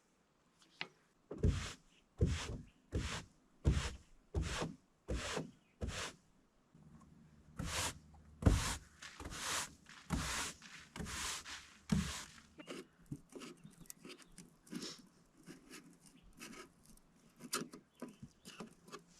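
A broom sweeping a wooden plank deck, in a run of brisk swishing strokes about one and a half a second. After about twelve seconds they give way to lighter, scattered strokes.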